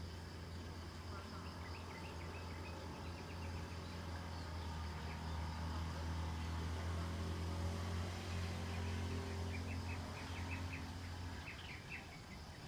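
Birds chirping in quick short series over a low, steady hum that swells a little and stops shortly before the end.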